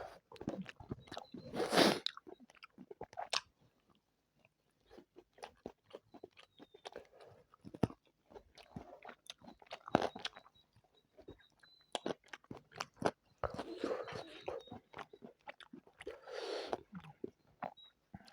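Close-miked eating: a person chewing and biting spicy chicken biryani and chicken legs, with many wet mouth clicks and smacks. There are louder bursts of crunching about two seconds in and twice near the end.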